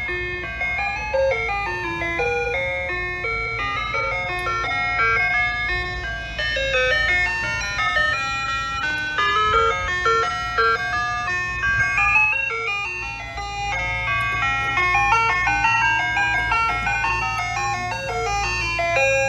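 Soft-serve ice cream truck's loudspeaker playing its electronic chime melody in a continuous run of quick notes, over a steady low hum.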